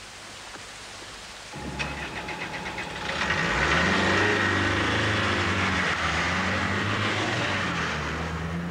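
Military Land Rover engine starting about a second and a half in, with a brief rattle, then revving louder as the vehicle pulls away and drives past, its pitch rising and falling.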